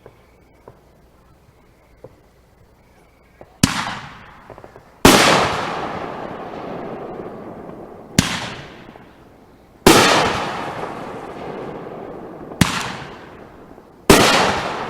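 Consumer fireworks going off: a few faint pops, then about a third of the way in six loud bangs over roughly ten seconds, each trailing off slowly as it echoes.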